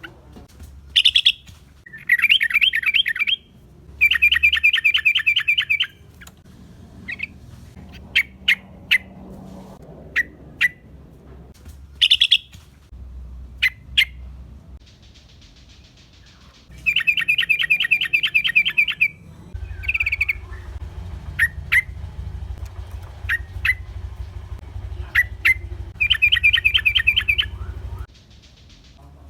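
Yellow-vented bulbuls calling: bursts of rapid chattering trills, each a second or two long, mixed with short sharp single chirps.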